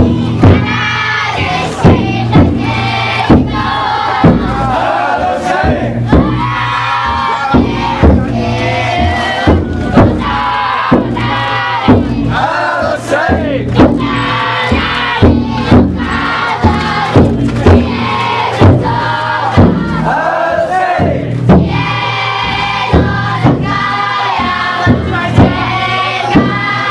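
Futon daiko drum float: its taiko drum struck in a steady beat, about one to two strikes a second, while a crowd of bearers chants and calls together.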